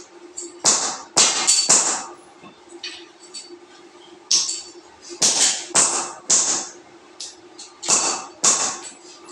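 A series of sharp, irregular knocks and taps, some in quick pairs, over a steady low hum.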